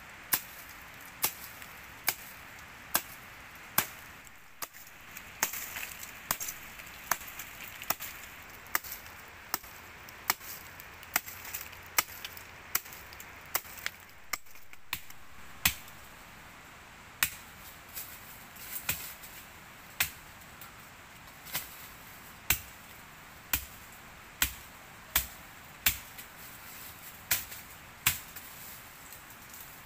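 Chopping with a blade: sharp, single strikes at a steady pace of about one a second.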